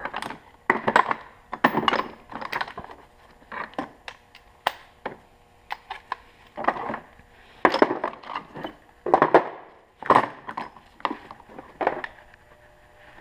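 Irregular knocks, clinks and scrapes of hand tools and metal parts being worked while the upper steering parts of a 1975 Honda CB550's front end are taken apart.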